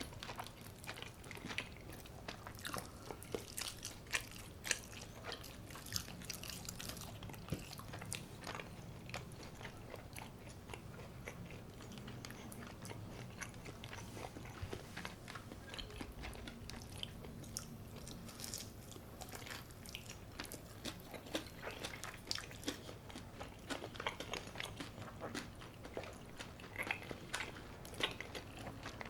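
Close-miked crunching and chewing of crispy brown-rice-coated baked chicken, an irregular run of crisp bites and crackles.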